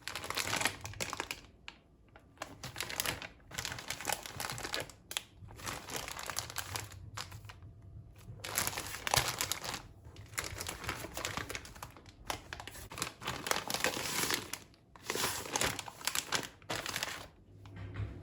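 Packaging being crinkled and handled in repeated bursts with short pauses between them.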